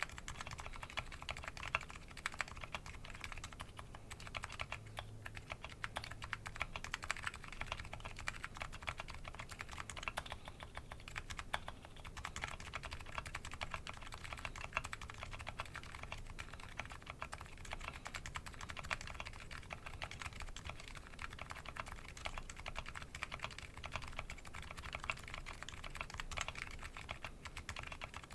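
Continuous fast typing on a Nuxros Kraze custom keyboard with MetaKeebs MetaPulse electrocapacitive switches and DCS Sleeper keycaps: a dense, unbroken stream of key clacks.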